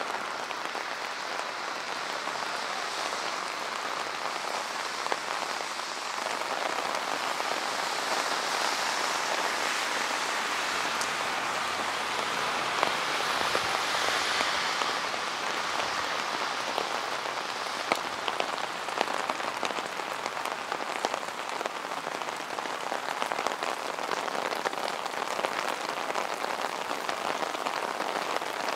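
Steady rain falling on wet city pavement and street, with close drips and splashes ticking through it; it swells a little and eases again.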